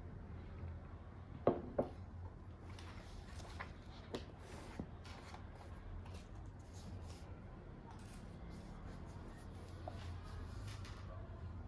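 Indoor handling sounds: two light knocks about one and a half seconds in, then scattered rustling and scraping strokes over a steady low hum.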